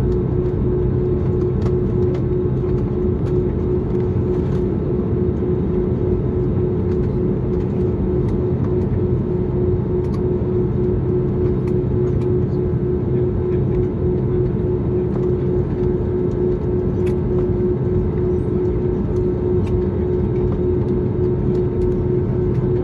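Steady cabin noise inside an Airbus airliner: the even drone of the jet engines with a constant hum tone and occasional faint ticks.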